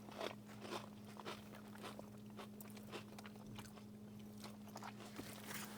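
A person chewing a mouthful of brisket sandwich close to the microphone: scattered small crunches and clicks over a steady low hum.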